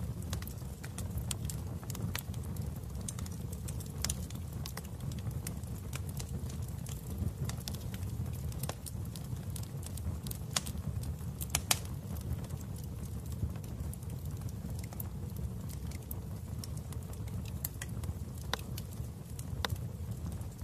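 Wood fire in a fireplace crackling, with irregular sharp pops over a steady low rumble of the flames; two louder pops come about halfway through.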